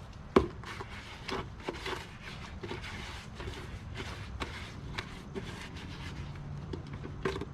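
Scraping and rubbing as the last of a watertight sealing cement is worked in around a drain pipe at a concrete catch basin, with a sharp knock about half a second in. A low steady hum runs underneath.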